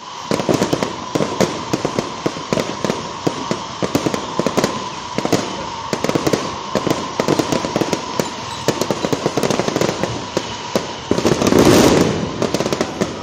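Fireworks display: a rapid, continuous string of sharp bangs and crackles from shells bursting, with a louder stretch about eleven seconds in.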